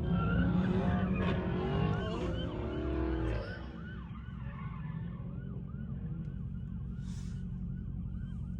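Siren yelping in rapid rising-and-falling sweeps, about three a second, over low vehicle rumble; the rumble and a tangle of other sweeping tones are loudest in the first three seconds and die down a little after.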